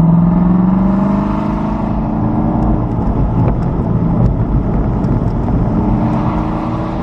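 Car engine accelerating under power, its pitch rising steadily for about three seconds. It then breaks off and climbs again near the end.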